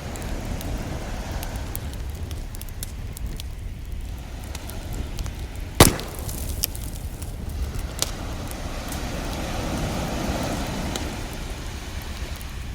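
Wood fire crackling with scattered sharp pops and one loud crack about six seconds in, over a steady low rumble and the wash of ocean waves, one of which swells and fades near the end.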